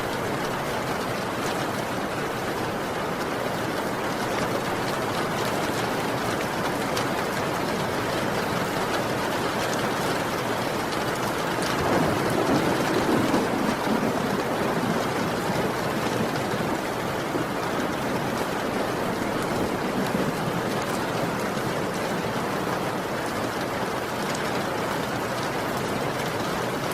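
Heavy rain falling steadily, a dense even hiss of drops, with a brief low swell about halfway through.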